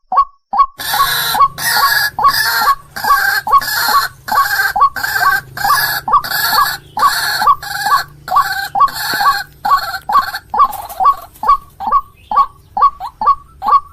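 White-breasted waterhen (ruak-ruak) calling. A rapid series of short notes, about three a second, runs throughout. From about a second in, loud harsh croaking calls at about two a second join it, and they stop about ten seconds in.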